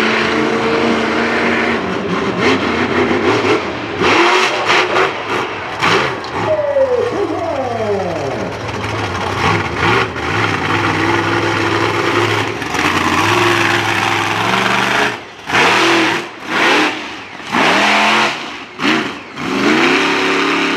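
Monster truck engine running hard during a two-wheel skills run, its pitch rising and falling with the throttle. In the last few seconds it gives a series of short, sharp revs with brief drops between them.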